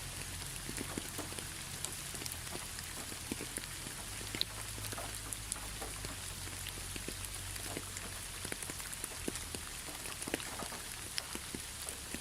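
Steady rain falling, with individual drops striking close by as scattered sharp ticks over an even hiss.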